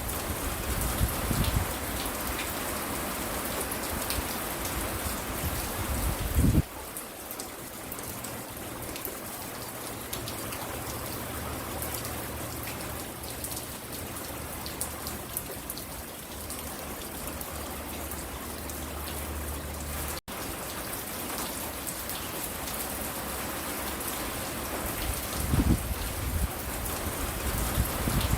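Steady rain falling and pattering on surfaces around a front porch. A few short low rumbles rise out of it near the start, about six seconds in and near the end, and the sound cuts out for an instant about twenty seconds in.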